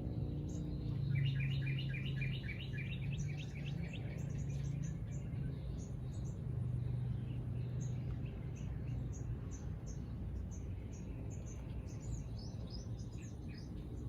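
Small birds chirping: a quick run of repeated chirps about a second in, then scattered short high chirps, over a steady low hum.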